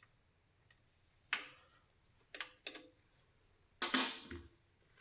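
Hand tools clanking against metal parts: a handful of separate sharp metallic knocks with a short ring, the loudest and longest about four seconds in.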